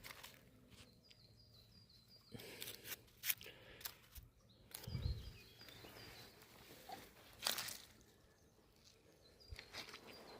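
Faint outdoor ambience: small birds chirping now and then, with a few scattered rustles and crunches like steps on the ground.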